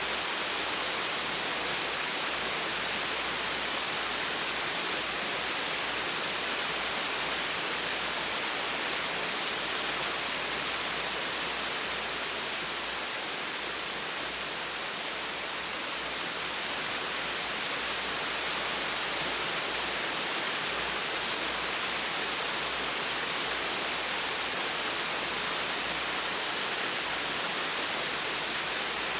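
Gentle waterfall with a steady, even hiss of falling and splashing water.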